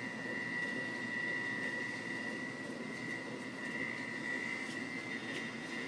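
Steady mechanical hum of a running refrigerator, with a high, steady whine over it.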